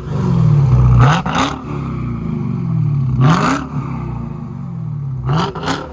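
A 2021 Dodge Challenger Hellcat's supercharged 6.2-litre Hemi V8, breathing through Black Widow Race Venom 'Angry Housewife' mufflers with the mid and rear resonators deleted, is revved in free rev. Three throttle blips about two seconds apart each rise sharply, then settle back down toward idle.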